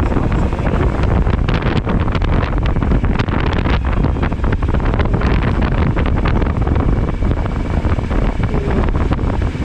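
Wind buffeting the camera microphone on a motorcycle riding at speed, a steady loud rush with irregular gusts.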